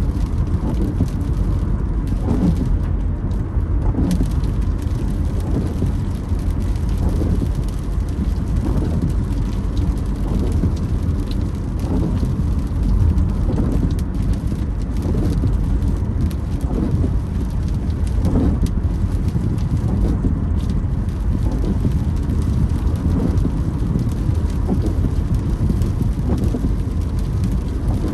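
Windshield wipers creaking across wet glass, one stroke about every second and a half to two seconds, over steady rain on the car and a low road rumble.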